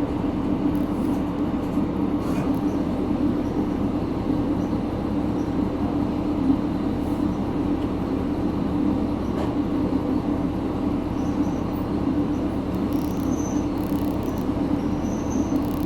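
Diesel railcar running, heard from inside the passenger cabin: a steady, even hum with no wheel rhythm.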